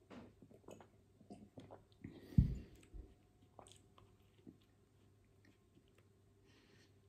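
Close-miked mouth sounds of drinking and then chewing a soft white-bread sandwich: small wet clicks, sips and swallows, with one loud, low thump about two and a half seconds in.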